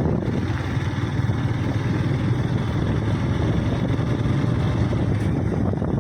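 Steady rumble of a vehicle on the move: engine and road noise, heaviest in the low end, with no change in pace.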